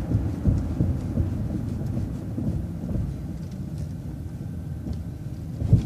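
Low rumble of a city bus driving, heard from inside, with uneven jolts from the road and a sharper thump near the end.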